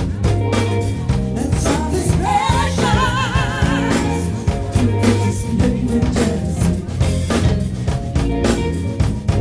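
Soul band playing live: drum kit and bass line with singing. About two seconds in, a high line with wide vibrato rises and is held for a couple of seconds.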